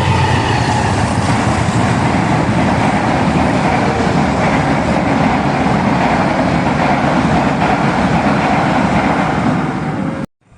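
A train passing close by: a loud, steady rumble and rattle of wheels on the rails, which cuts off abruptly near the end.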